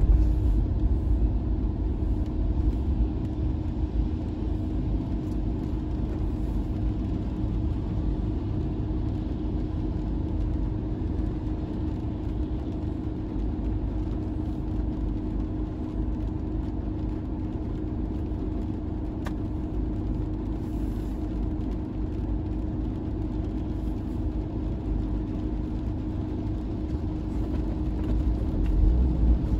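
Car engine and road noise heard from inside the cabin: a steady low rumble with a constant hum.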